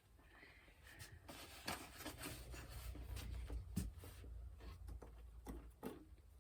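Faint handling sounds: light clicks and rubbing as the foam and plastic parts of an RC plane and its packaging are picked up and turned over, over a low rumble.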